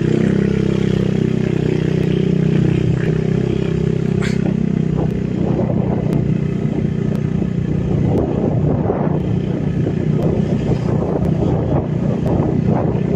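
A small vehicle engine running close by, steady at first and turning rougher and more uneven from about five seconds in, with a single sharp click about four seconds in.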